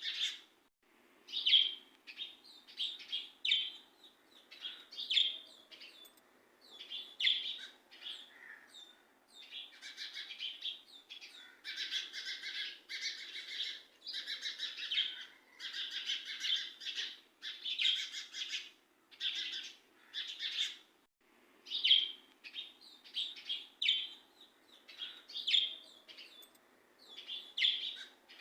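Birds chirping: many short, repeated chirps, a few a second, thickest around the middle.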